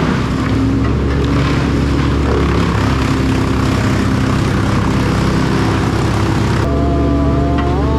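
Heavy machinery engine running steadily at a loud, even drone, with a higher whine that comes in near the end and rises briefly.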